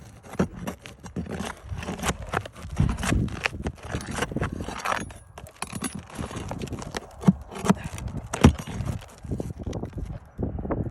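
A pry bar working under roof shingles to lift them and free the nails: irregular knocks, clacks and scrapes, with a few sharper knocks near the end.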